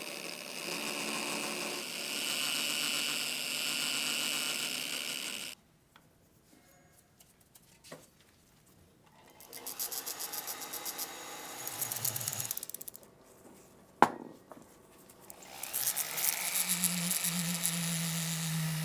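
A power tool running in separate stretches on the gun's parts, stopping abruptly about five seconds in and starting again around nine seconds and near sixteen seconds, with near-quiet gaps between. A single sharp click about fourteen seconds in is the loudest sound.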